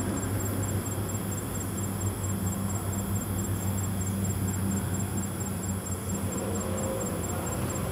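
Car engine running at low speed, a steady low hum, with a faint high-pitched tone pulsing about four to five times a second over it.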